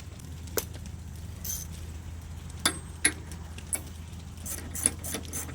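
Hand socket ratchet clicking as a bolt is run in by hand: a few separate sharp clicks, then a quick run of clicks near the end. A steady low hum sits underneath.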